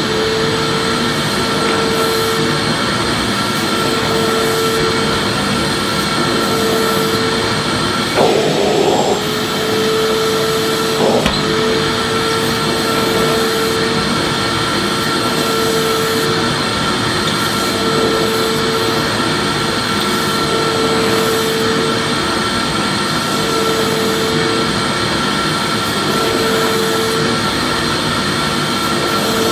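Vacuum cleaner motor running steadily: a continuous loud rushing noise with a constant whine. A lower tone in it cuts in and out about every two seconds, and there is a brief knock about eleven seconds in.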